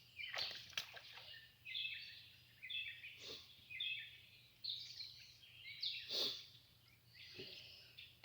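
Songbirds singing and calling, a run of short chirping phrases one after another, with a few sharper chip-like notes mixed in.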